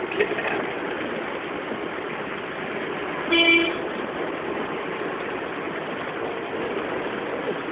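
Car driving through deep floodwater: a steady rush of water and road noise around the car. A vehicle horn gives one short toot about three seconds in.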